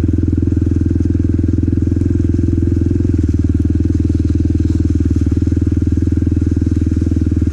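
Motorcycle with a loud exhaust running at low, near-idle revs in third gear as it is ridden slowly, a steady engine note with a slight drop in pitch about three seconds in.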